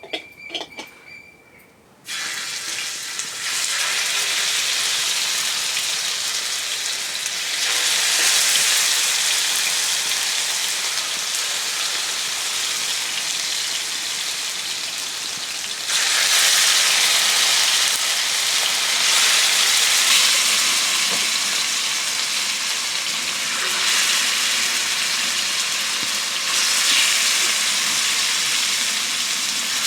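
Food frying in hot oil: a loud, steady sizzle starts suddenly about two seconds in after a few light clicks, and grows louder in steps later on.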